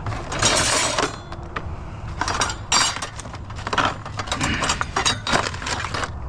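Metal and glass scrap items clinking, clattering and rattling as they are handled and dropped: a string of sharp knocks and short rattles, the longest about half a second in. A running truck engine hums low underneath.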